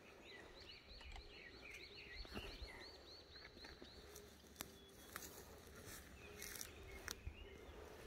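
A small songbird singing a quick run of repeated, arching high notes, about five a second, for roughly four seconds. A few faint sharp clicks follow near the end.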